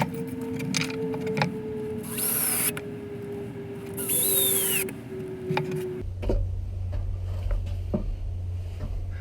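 Two short bursts of a power tool, each under a second, about two seconds apart, amid scattered knocks of brickwork, over a steady faint tone. About six seconds in the background changes abruptly to a low hum with occasional knocks.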